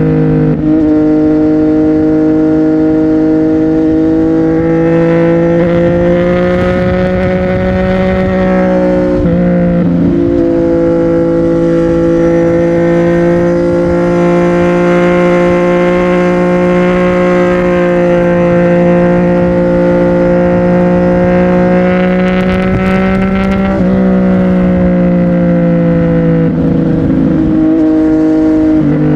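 CFMOTO 675NK's three-cylinder engine through a titanium aftermarket exhaust, running under way at a fairly steady note. A few brief breaks in the note come and go.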